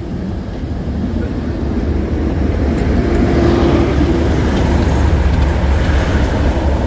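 Class 37 diesel locomotive's English Electric V12 engine running with its train, a deep steady rumble that builds over the first three seconds and then holds.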